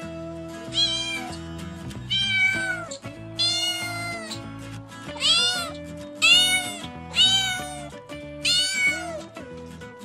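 A cat meowing repeatedly, about seven rising-and-falling meows spaced roughly a second apart, one of them longer in the middle, over background music with low held notes.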